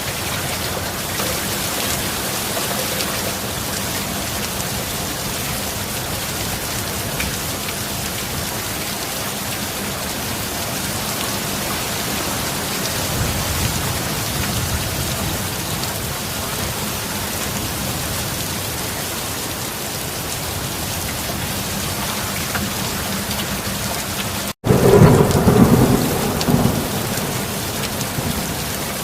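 Heavy rain falling steadily. Near the end the rain cuts out for a split second, then a loud, close thunderclap rumbles for a couple of seconds over the rain.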